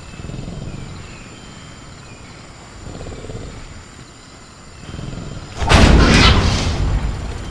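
Quiet night ambience with faint insect and bird calls, then about three quarters of the way through a loud, heavy crashing rattle with a deep low thud, the sound of a caged raptor throwing itself against the cage in a designed sound effect.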